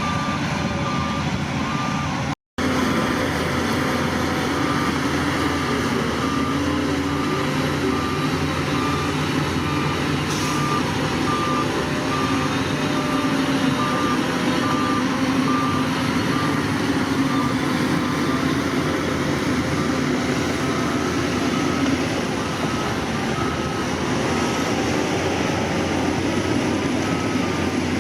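Heavy diesel construction machine running steadily while its reversing alarm beeps at an even pace, a single-pitched beep repeating over the engine drone. The sound cuts out for an instant about two and a half seconds in.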